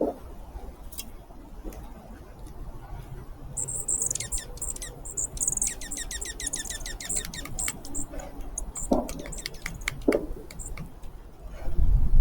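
A songbird's rapid trill: a fast run of high, falling notes lasting about four seconds, over a steady low background rumble.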